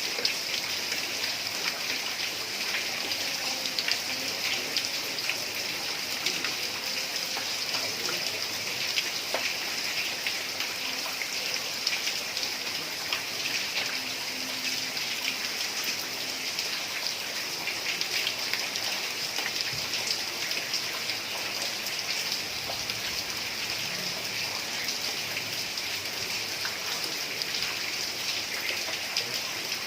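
Heavy rain falling steadily on a tiled roof, a dense even patter of drops with no break.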